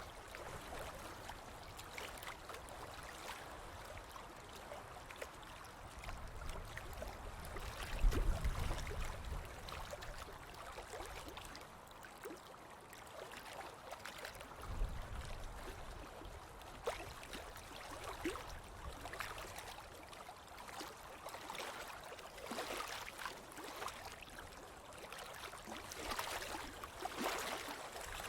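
Ocean waves washing on a beach: a steady hiss of surf with many small splashes and crackles of water. A low rumble about eight seconds in is the loudest moment, with another about fifteen seconds in.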